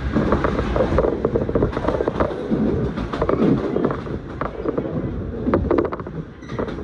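A train running, heard from inside the carriage: uneven rumble of the running gear, with a quick run of clicks over the track near the end.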